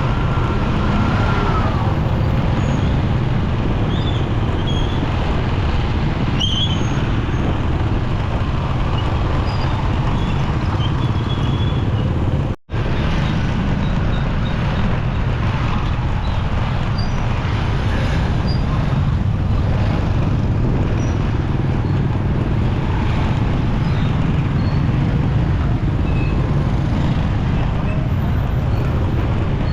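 Steady engine, road and traffic noise from a motorcycle riding through busy city traffic, strongest in the low range. The sound cuts out for a split second near the middle.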